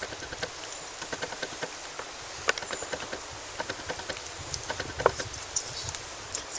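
Scattered light clicks and taps at an irregular pace, over a steady low rumble.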